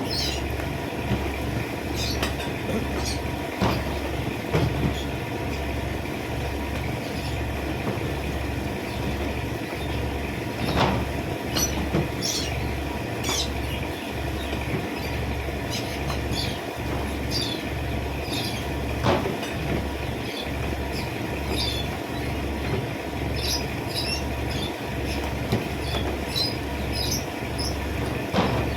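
Small birds chirping in short, high calls scattered throughout, over a steady low mechanical hum that throbs about once a second.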